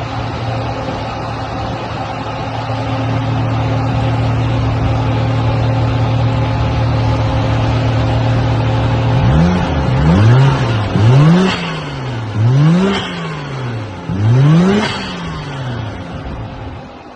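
Toyota 1JZ-GTE non-VVTi twin-turbo 2.5-litre inline-six running at a steady idle after start-up, then blipped on the throttle four times, each rev rising and falling quickly back to idle, before it settles and quietens near the end.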